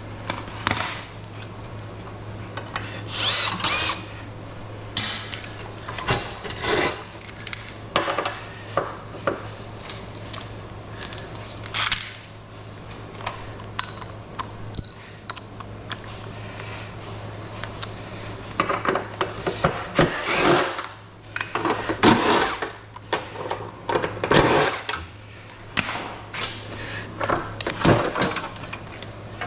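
Power drill run in short, irregular bursts, with a steady low hum underneath.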